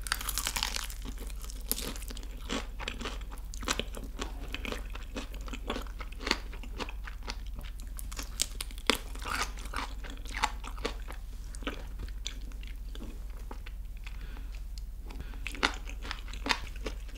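Close-up crunching of a crispy fried chicken drumstick: a crackly bite at the start, then chewing with irregular crunches and clicks.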